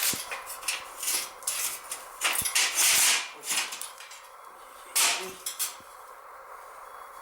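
Clattering, knocks and scraping of metal parts being handled and set in place, a busy run over the first three seconds and one more clatter about five seconds in.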